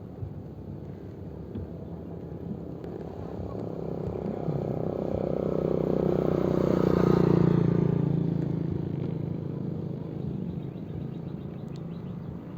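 A motor vehicle passes by on the road, its engine and tyre noise growing louder to a peak about seven seconds in and then fading away.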